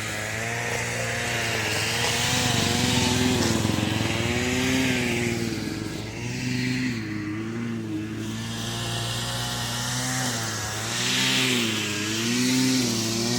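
Stihl two-stroke pole pruner running, its engine speed rising and falling over and over as it is throttled. There is a harsher rasping stretch from about one to five seconds in and again near the end, as the chain cuts into branches.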